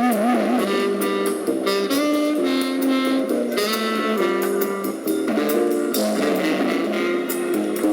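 Live jazz band playing: a saxophone carries a melody with vibrato over guitar chords and light cymbal ticks.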